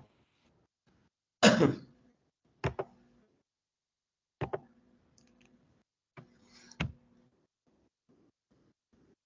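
A single throat-clearing cough, then a few sharp double clicks about two seconds apart, over faint regular ticking.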